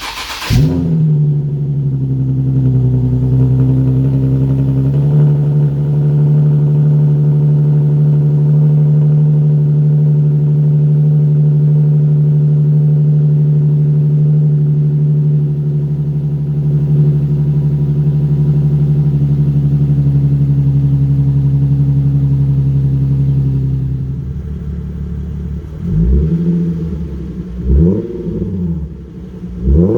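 Nissan 370Z's 3.7-litre V6 with its muffler deleted, exhaust running through straight pipes: it fires up with a sharp burst, holds a loud, steady fast idle, and near the end is revved three times in quick blips that rise and fall.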